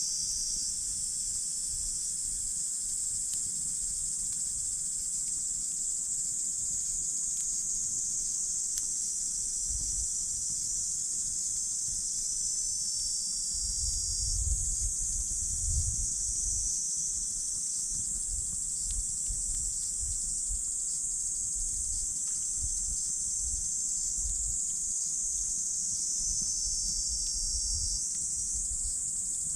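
Steady high-pitched chorus of insects trilling, with a campfire crackling faintly in a few sharp clicks. Underneath runs an uneven low rumble that swells briefly about halfway through.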